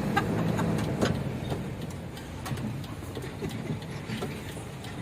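Truck's diesel engine idling steadily on biodiesel made from used cooking oil, with a few short clicks and knocks in the first second or so.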